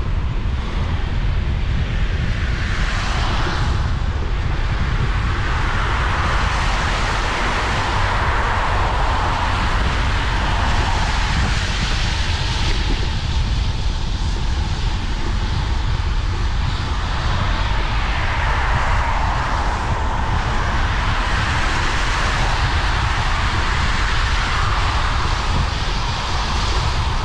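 Steady rush of air and tyre hiss from a bicycle ride on rain-wet paths, with a low rumble of wind on the microphone. The hiss swells and eases slowly, with no distinct events.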